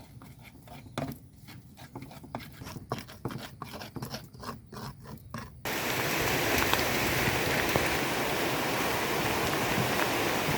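Pestle grinding spices in a mortar, with irregular scrapes and knocks. About halfway through, this cuts off abruptly to heavy rain, a steady loud hiss.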